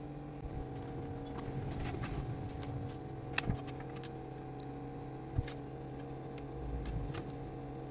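Small plastic pieces clicking and rattling as they are handled, with a sharp click about three and a half seconds in, over a steady low hum.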